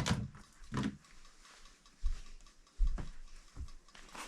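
Several dull knocks and thumps, spaced about a second apart, as things are handled and set down.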